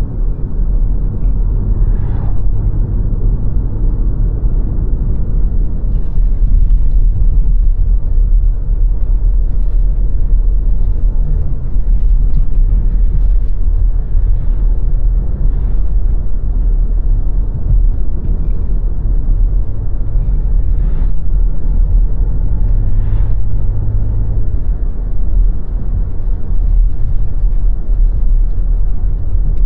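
Car driving along a road: a steady low rumble of engine and tyres, with the engine note rising and falling in places and a few faint clicks.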